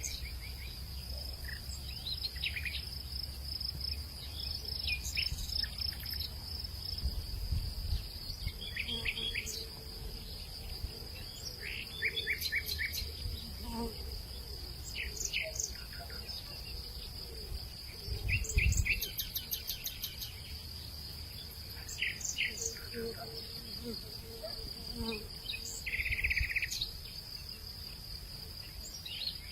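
Outdoor hillside ambience: a steady, high-pitched insect drone runs throughout, with many short bird chirps and calls scattered over it.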